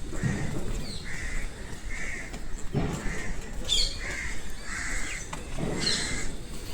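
Birds calling in a forest: a run of short repeated crow-like caws, with a few sharp higher chirps from other birds. Low thuds come three times, about a second in, near the middle, and near the end.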